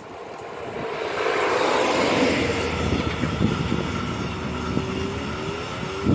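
A train passing close by on the track: its noise swells over the first second and a half into a steady rattle of wheels on the rails, with a tone that slides down in pitch as it goes by.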